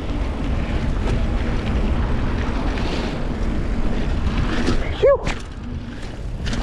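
Steady rushing noise of a mountain bike being ridden through rain, mostly wind buffeting the microphone with tyre noise under it.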